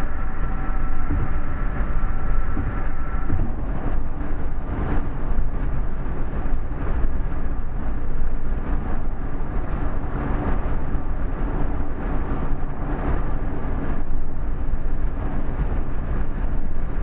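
Steady low rumble of tyre and wind noise from a car driving at speed, with a few faint steady tones that fade out about three seconds in.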